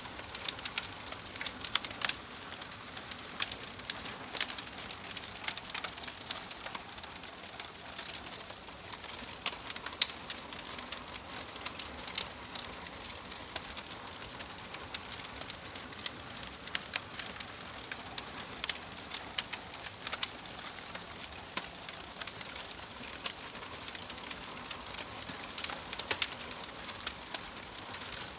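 Wood fire crackling in a fireplace: frequent irregular sharp pops and snaps over a steady soft hiss.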